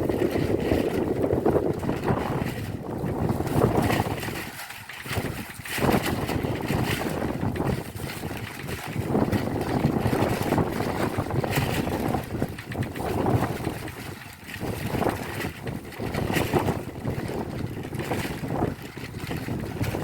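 Strong wind gusting with heavy rain falling on roof tiles; the gusts buffet the microphone in swells that ease off briefly about five seconds in and again near the middle.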